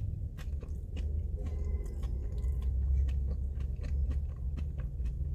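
A person chewing a mouthful of sauce-covered spicy food close to the microphone, with many small wet mouth clicks over a steady low rumble.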